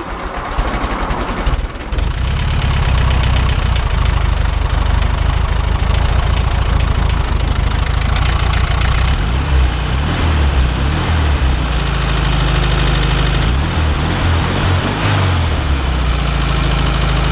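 A warm 1973 VW Beetle's air-cooled flat-four is cranked by the starter for about two seconds, catches, and settles into a steady idle with a clatter like a four-cylinder diesel. Its speed shifts briefly twice, around ten seconds in and again around fourteen seconds in.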